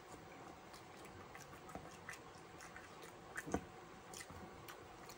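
Faint chewing of a mouthful of cheese-topped fries: a scatter of small, irregular mouth clicks, with one louder one about three and a half seconds in.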